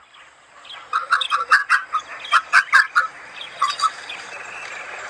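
A bird calling in a fast run of short notes, about four or five a second for some two seconds, then two more notes a moment later.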